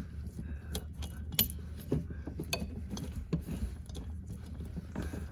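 Plastic starter relay being wiggled back and forth to work it off the freezer compressor's terminal pins: scattered clicks and rattles, the sharpest about one and a half seconds in.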